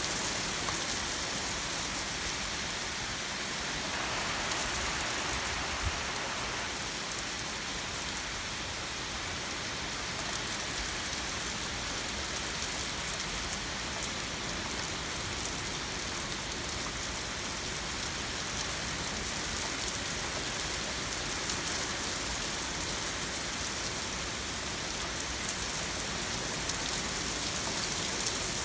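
Heavy rain falling steadily during a thunderstorm, a dense even hiss with many small drop impacts on hard surfaces.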